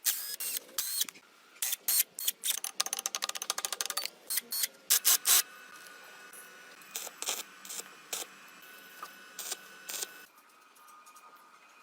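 Hand-tool work on a car: a series of sharp clicks and short scraping strokes, including a fast run of clicks about three seconds in and three loud strokes near the middle. Later come fainter, scattered clicks over a thin steady tone, which stop shortly before the end.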